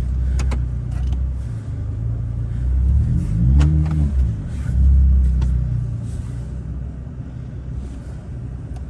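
APR-tuned Volkswagen Passat R-Line's turbocharged engine revving under load as the car is stuck in deep snow, trying to climb with its wheels spinning. The revs rise and fall once a little past halfway, and it runs louder just after.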